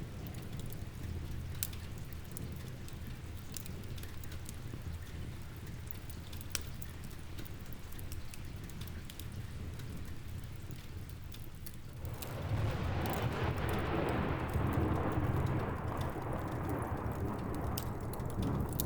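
Steady rain with the scattered pops of a crackling log fire. About twelve seconds in, a long roll of thunder builds up and slowly fades.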